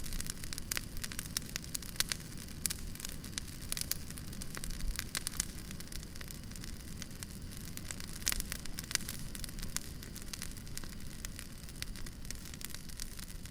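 Wood fire crackling: irregular sharp pops and snaps from burning firewood over a steady low rumble.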